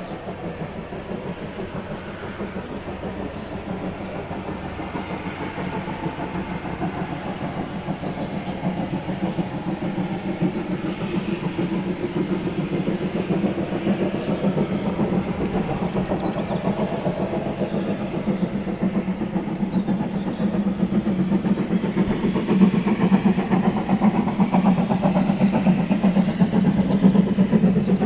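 A steam train running and drawing closer, its sound growing steadily louder toward the end.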